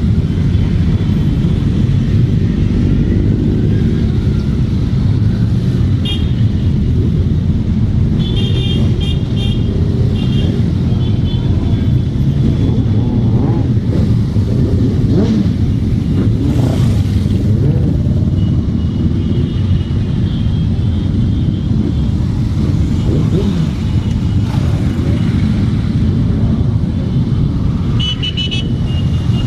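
Many motorcycle engines running together in a loud, steady rumble, with horns beeping several times in short stuttering bursts.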